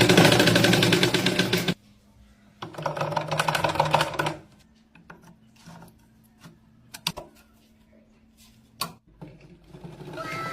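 Sewing machine running fast with a rapid stitching rhythm, stopping abruptly about two seconds in, then running again for about a second and a half. After that come a few sharp clicks.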